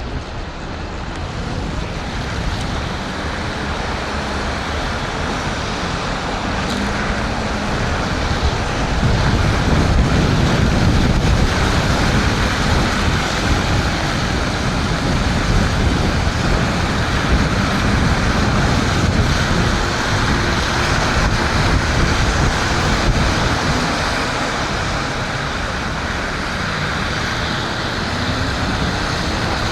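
Wind rushing over the microphone and tyres hissing on wet pavement as an electric scooter rides through rain; the noise grows louder about a third of the way in.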